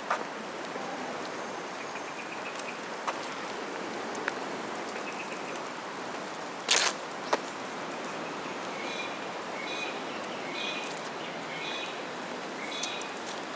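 Birds chirping in short repeated calls over a steady outdoor city hiss, with a few sharp clicks, the loudest about seven seconds in.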